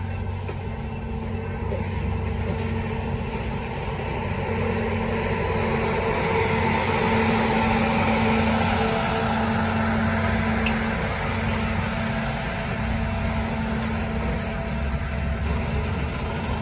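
Canadian Pacific Holiday Train's boxcars rolling slowly past, a steady rumble of wheels on rails that swells a little partway through.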